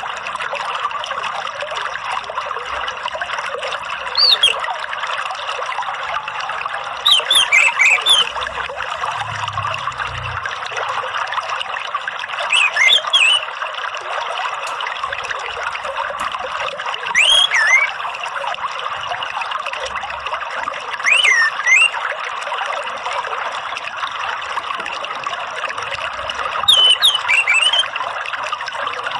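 Steady trickling of running water with an orange-headed thrush (anis merah) singing short whistled phrases over it, six times, about every four to five seconds. It is a lure call (pancingan) meant to set a caged thrush singing.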